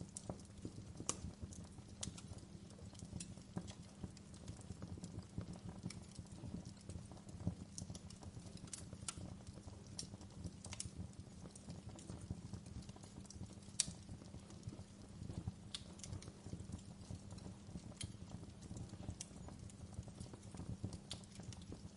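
Wood fire crackling in a fireplace: a steady low rumble of burning with irregular sharp pops and snaps, one louder pop about two-thirds of the way through.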